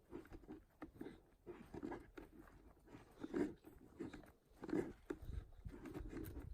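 Irregular footsteps crunching over the forest floor, with small snaps and rustles of leaves and twigs underfoot.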